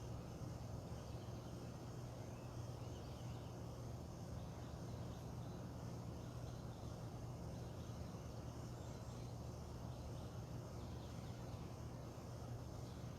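Outdoor dawn ambience: faint bird chirps and insects over a steady low hum.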